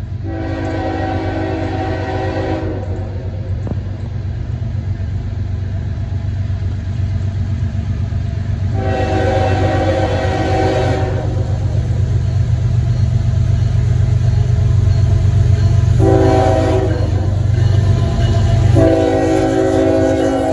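Diesel freight locomotive's multi-chime air horn sounding the grade-crossing signal: long, long, short, long, with the final long blast starting near the end. Under it the locomotive's engine rumble grows steadily louder as the train approaches.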